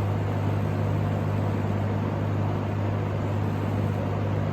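1960s Superlectric 2067S box fan with a metal blade running on high speed: a steady rush of air over a low, even motor hum, with a bit of vibration.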